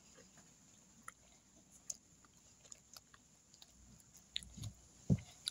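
Faint chewing and small scattered clicks of people eating pizza, with one louder knock about five seconds in.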